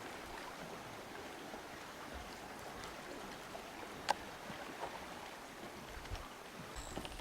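Steady background noise with no clear source, with one sharp click about four seconds in.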